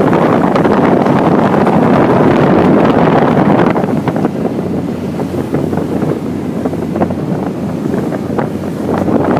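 Speedboat under way at sea: wind buffeting the microphone over the run of the boat's engine and rushing water, a little quieter from about four seconds in.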